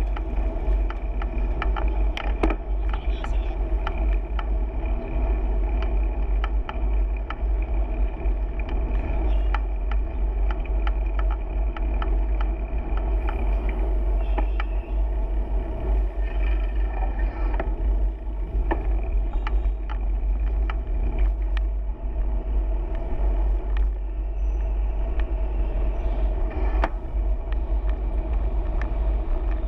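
Wind rumbling on the microphone of a camera carried on a moving bicycle, with road and traffic noise and scattered small clicks and rattles.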